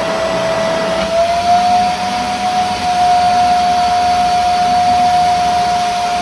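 MAG 3-in-1 wet and dry vacuum cleaner's motor running at full suction with a steady high whine that rises slightly in pitch about a second in. The suction is holding up a half-filled 1.5-litre water bottle at the nozzle.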